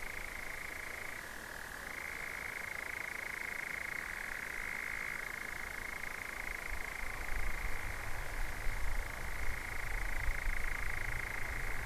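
European nightjar churring: a long, unbroken mechanical trill that holds one pitch and dips briefly just over a second in. A low rumble joins about halfway through.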